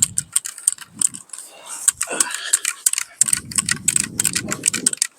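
Rapid, irregular clicking and rattling, with a gust of wind rumbling on the microphone about three seconds in.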